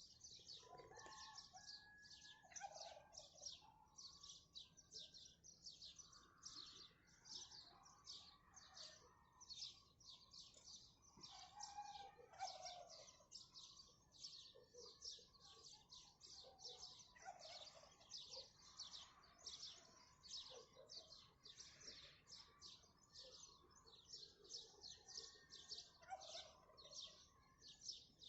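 Many small birds chirping rapidly and without a break, with lower, scattered calls from other birds underneath. Faint.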